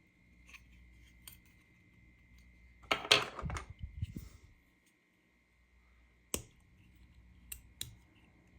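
Plastic toy pieces being handled: a short bout of clattering and rustling about three seconds in, then a few single sharp clicks. A faint steady high tone runs underneath.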